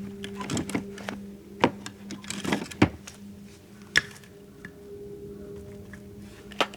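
Sharp knocks and clicks of hard objects being handled, about half a dozen, over a steady low hum.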